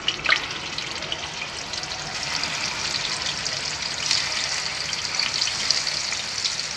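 Mutton koftas sizzling and crackling in hot oil in a frying pan as they are lowered in one by one; the sizzle grows louder as more go in.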